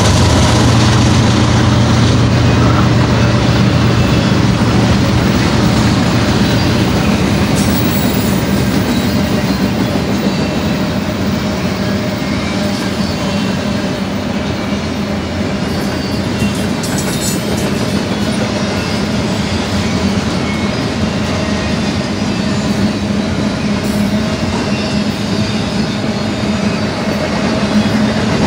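Double-stack intermodal well cars of a freight train rolling past on steel rails: a loud, steady rolling noise of wheels on track with faint wheel squeal. The low engine drone of the trailing diesel locomotive fades out over the first several seconds.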